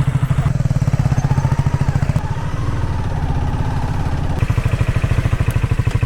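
Motorcycle engine idling with a steady, rapid low pulsing.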